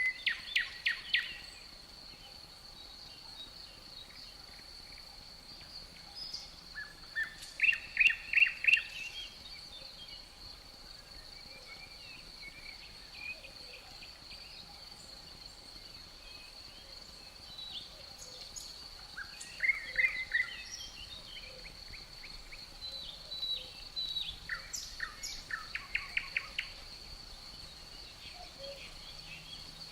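A songbird singing short phrases of rapid repeated notes, four times, over a steady high-pitched insect trill.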